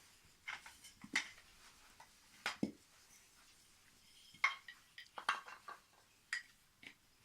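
Wooden toy train track pieces knocking and clicking as they are handled and fitted together, in about half a dozen irregular little clusters of sharp clacks.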